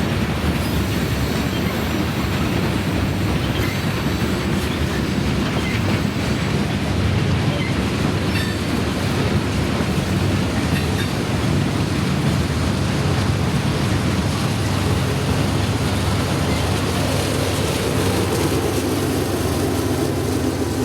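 Freight train rolling past, its cars clattering steadily over the rails with a few faint, short wheel squeals.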